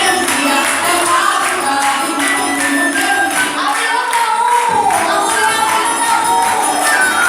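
Live Brazilian folk music: voices singing a melody over percussion keeping a steady beat.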